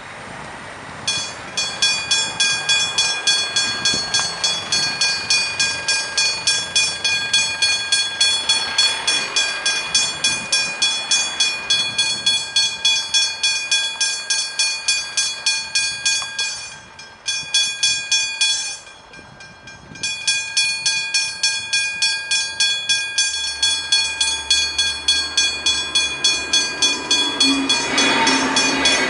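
Level-crossing warning bell (Westinghouse hybrid bell) ringing in rapid, even strokes from about a second in, dropping out briefly twice past the middle. Near the end an approaching train's rumble comes in under the bell.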